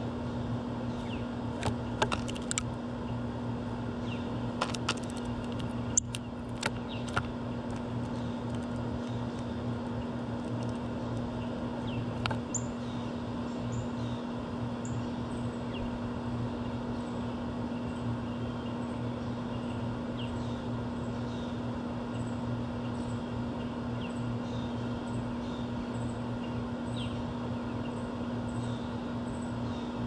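A small songbird repeats a single short, high, down-slurred call about every three-quarters of a second through the second half, over a steady low mechanical hum. A few sharp taps come in the first dozen seconds.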